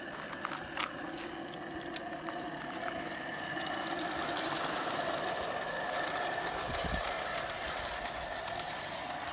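Wilesco Lucas live-steam model locomotive running along a garden railway with its carriages: a steady hissing run with fine clicking from the wheels and train, growing somewhat louder about halfway through as it comes closer.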